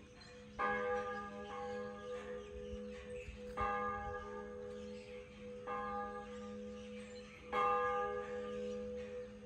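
A church bell tolling: four strikes roughly two seconds apart, each ringing on into the next.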